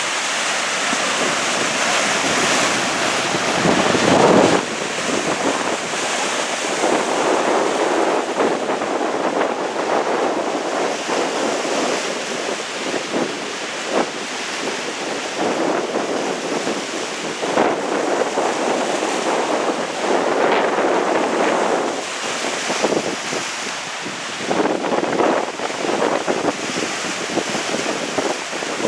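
Strong gusty wind blowing and buffeting the microphone, swelling and easing in repeated gusts.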